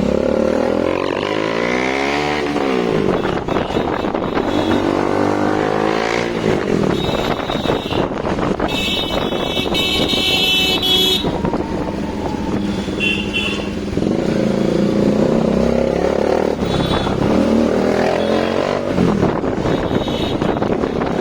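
Bajaj Dominar 400 single-cylinder engine with an aftermarket exhaust, ridden through traffic: engine pitch rises and falls repeatedly as it revs and shifts gears. A vehicle horn sounds for about two seconds near the middle, with short toots later.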